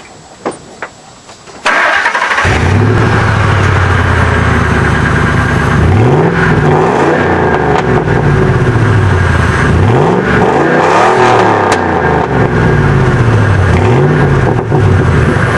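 A Ford 5.4L Triton V8 through a glasspack exhaust, cranked and started about two seconds in after a few faint clicks. It settles into a loud, deep idle and is then revved up and back down several times.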